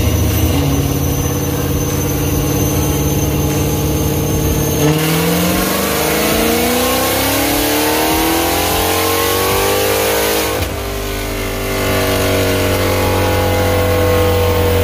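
Supercharged 6.2-litre HEMI V8 of a 2019 Dodge Challenger Hellcat Redeye running on a chassis dyno. It runs steadily for about five seconds, then the engine pitch climbs for about five seconds in a dyno pull. It drops off suddenly and runs on with a slowly falling pitch.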